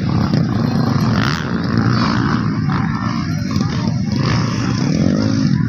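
Motocross dirt bike engines racing, revving up and down over and over.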